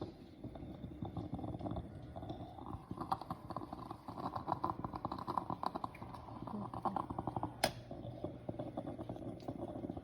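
Stainless steel moka pot boiling plain water, a continuous fast gurgling and sputtering as the water is forced up into the top chamber, with one sharp click about three-quarters of the way through.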